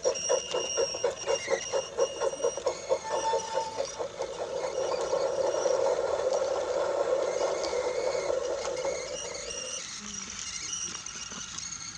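Brio toy train rolling on wooden track, its wheels clicking over the track joints about four to five times a second, then running on as a steady rumbling whir that drops away about ten seconds in.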